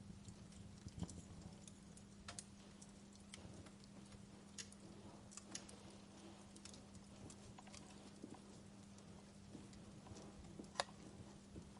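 Wood fire crackling faintly in a fireplace: scattered, irregular snaps and pops, with a sharper pop near the end, over a steady low hum.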